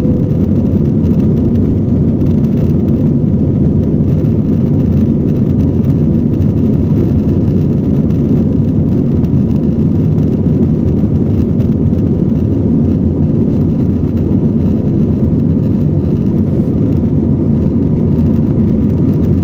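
Tigerair Taiwan Airbus A320's jet engines running at takeoff power, a loud, steady rumble.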